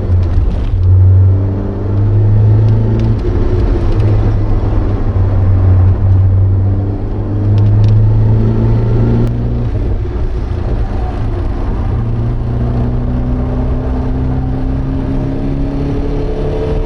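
Porsche 924's 2.0-litre four-cylinder engine heard from inside the cabin at race pace, its note going up and down in steps over the first ten seconds, then pulling steadily with a slowly rising pitch through the second half.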